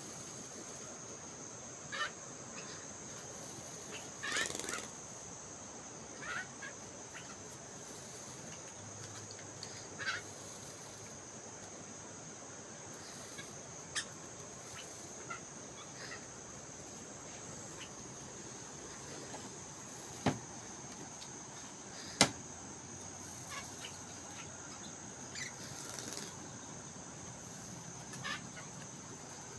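A jalak rio-rio starling giving short, scattered chirps every few seconds, with two sharp taps a little past the middle. A steady high whine runs underneath.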